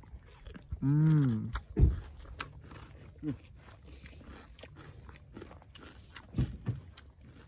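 A person chewing food close to the microphone, with irregular crunching clicks. A short hummed 'mm' that rises and falls comes about a second in, and a thump follows just before two seconds.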